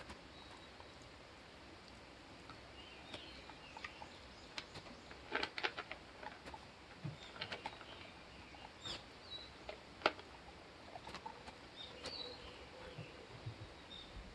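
Faint outdoor ambience with scattered bird chirps and irregular small clicks and rustles, a cluster of them about five seconds in and a sharp click about ten seconds in.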